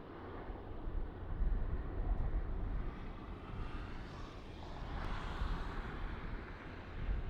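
Jet airliner engine noise: a steady rush and rumble with no clear pitch, with wind gusting on the microphone.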